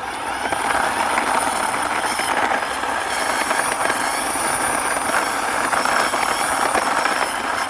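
Toy tronton truck's plastic wheels rolling steadily as it is pushed along by hand, a continuous grainy rumble.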